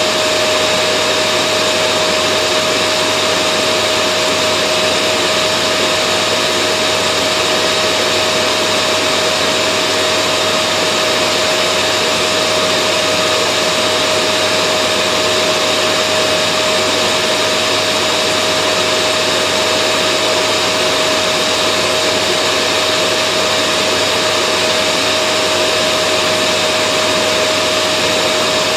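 Vacuum cleaner running steadily, a constant motor whine with a strong even hum over airflow noise.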